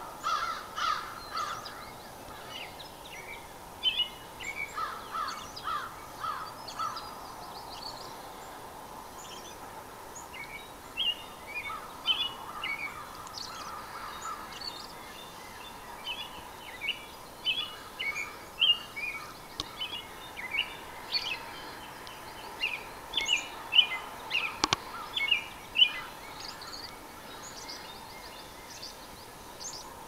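Birds calling in the woods: many short chirps in quick clusters, on and off. A single sharp click about 25 seconds in.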